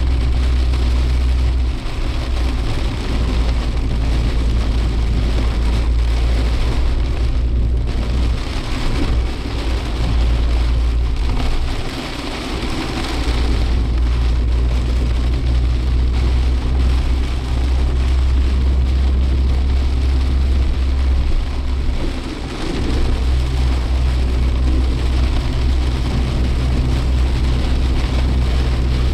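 Suzuki Jimny Sierra driving in heavy typhoon rain, heard from inside the cabin: a steady low engine and road drone under the hiss of rain and wet tyres. The drone eases off briefly three times.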